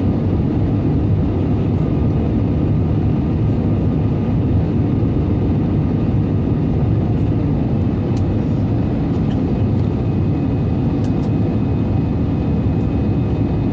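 Steady, loud rumble of an Airbus A320-200's engines and airflow, with faint steady engine whine above it, holding constant without rising or falling.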